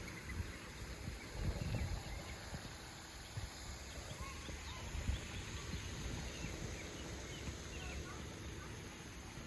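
Outdoor ambience: wind buffeting the microphone in gusts, with scattered faint short bird chirps.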